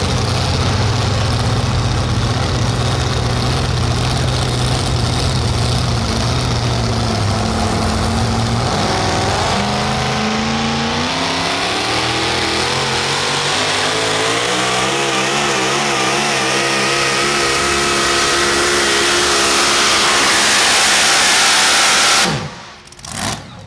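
Super modified four-wheel-drive pulling truck's engine at full throttle under load on a pull, a steady loud drone at first, its pitch climbing steadily through the second half. The sound cuts off abruptly near the end.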